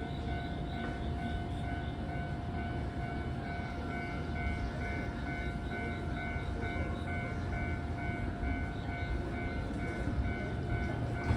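Shinano Railway 115-series electric train standing with its equipment running: a steady low rumble and a constant hum, with a faint tone pulsing about twice a second.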